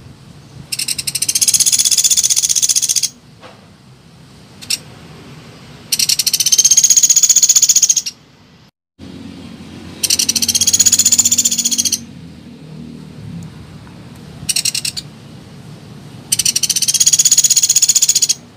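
Pelatuk beras woodpecker calling: four loud, fast rattling trills of about two seconds each, with a few shorter bursts between them. The audio cuts out briefly about nine seconds in.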